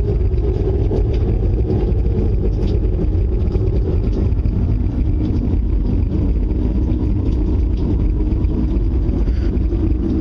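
Steady, loud, low rumbling roar of storm wind, heard as something getting close.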